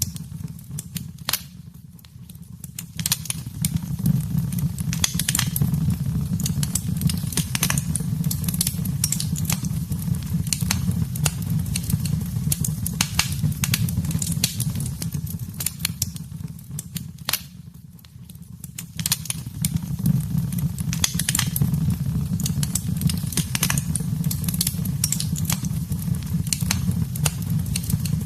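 Wood fire burning in a fireplace, crackling with frequent sharp snaps over a steady low rumble. The crackle eases off briefly twice, about two seconds in and again past the middle.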